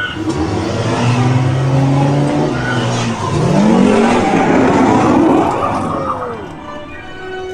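Ride soundtrack effects of a police chase: vehicle engines revving, with a rising glide about halfway through and a falling glide near the end, over a loud rushing noise.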